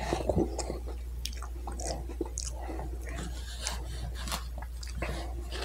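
Close-up mouth sounds of a man chewing a forkful of food, with irregular wet smacks and small clicks, over a low steady hum.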